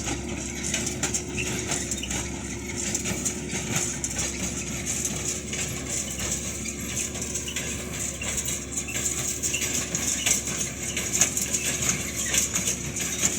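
Tractor and baler machinery running steadily, a constant hum under rapid, continuous metallic clinking and rattling.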